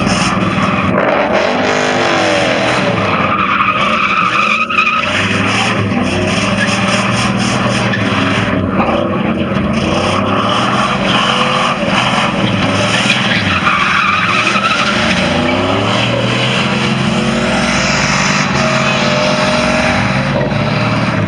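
A vehicle engine revving up and down repeatedly under load, with tires screeching and skidding, as in a burnout.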